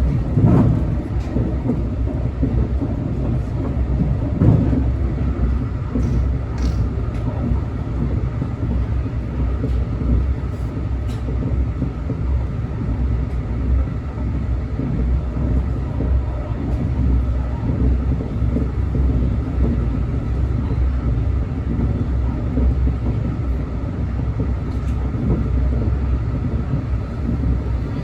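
Steady low rumble of a moving train, with a faint steady whine above it and a few light knocks near the start.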